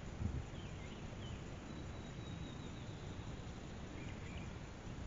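Outdoor morning ambience: a steady background hiss with a few faint, distant songbird chirps and one thin, high drawn-out note in the middle. A brief low bump comes just after the start.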